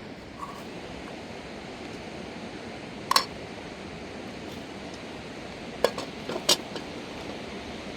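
Steady rushing of river water, with a few short sharp clinks: one about three seconds in and three more close together around six seconds.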